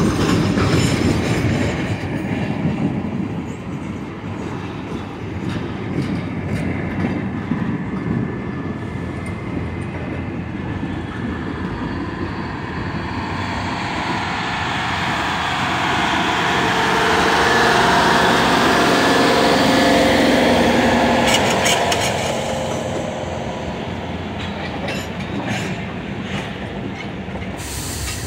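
Freight cars of a slow Norfolk Southern rail train rolling past, wheels rumbling and clicking over the rails. In the middle comes a louder stretch with a thin metallic squeal that rises and then fades.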